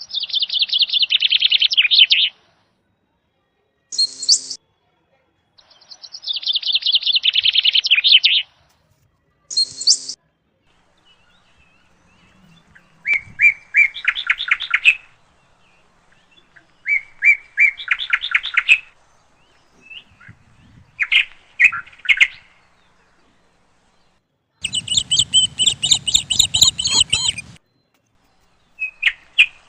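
A bird chirping in rapid runs of high notes, each run lasting one to three seconds, with pauses between, and two short, sharp high calls early on.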